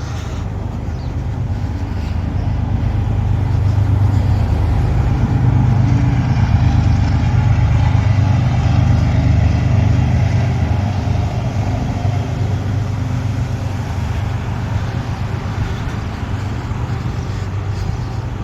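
Low, steady rumble of a passing heavy vehicle, building to a peak about halfway through and then slowly fading.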